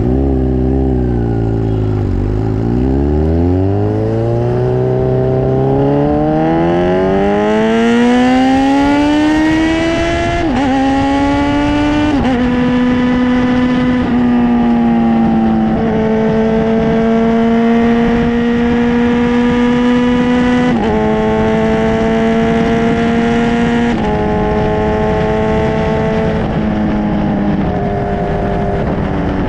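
Kawasaki Ninja 1000SX inline-four running through an Akrapovič full-system exhaust under way. The engine note dips, then climbs steadily for several seconds as the bike accelerates. It drops abruptly twice, as with upshifts, then holds a steady pitch with small rises and falls.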